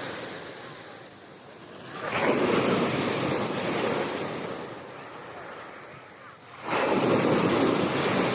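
Black Sea storm surf breaking on the shore: two waves crash about four and a half seconds apart, each a rush of surf that swells up and then slowly ebbs.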